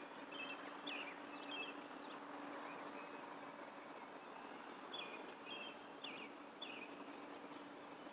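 Faint bird chirps in two short series of quick falling notes, over a steady low hum and background hiss.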